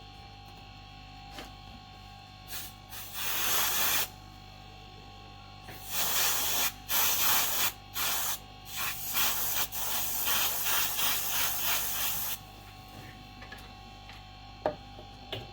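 Aerosol freeze spray hissing in bursts onto a phone circuit board: a short puff, a longer blast, then a run of short repeated sprays. It is used to find the warming part that shorts the power line.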